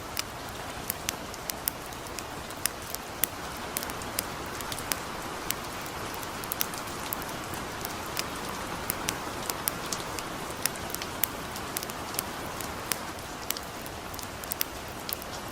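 Steady light rain hiss mixed with a campfire crackling: sharp pops scattered irregularly, a few each second, over the even wash of the rain.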